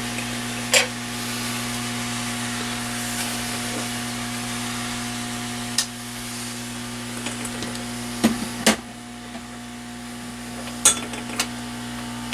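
Hot air rework gun blowing steadily with a hiss and a low hum, with a few sharp clicks from tools on the circuit board. The air noise grows quieter after about six seconds.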